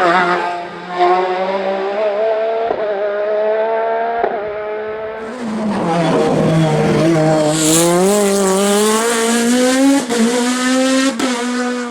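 Race car engine under hard load, its pitch stepping with quick gear changes. The pitch drops as the car slows about halfway through, then climbs steadily as it accelerates again, with two brief breaks near the end.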